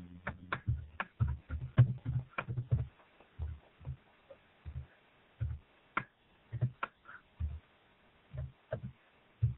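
Chewing and mouth noises close to the microphone while eating a Pop-Tart and licking the fingers: irregular soft low thuds mixed with sharp clicks and smacks, busiest in the first few seconds and sparser after.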